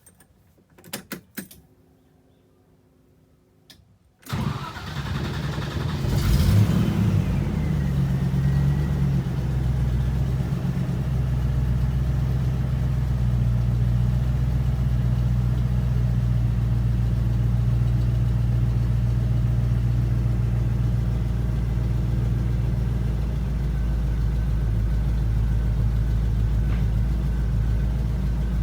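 A few clicks, then the 1994 Land Rover Defender 90's V8 is cold-started about four seconds in: it catches at once, flares up and comes back down, and settles into a steady fast idle.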